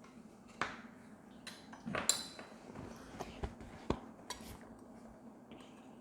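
Utensils knocking and clinking against dishes during a meal: a handful of short, separate clinks and taps, the loudest about two seconds in with a brief ring.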